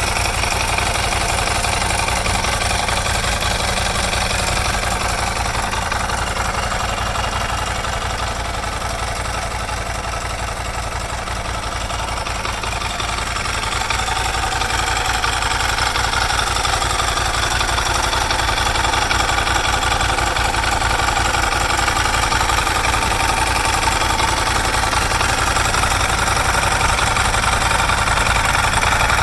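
Motorcycle engine idling steadily, dipping a little in level about ten seconds in and picking up slightly toward the end.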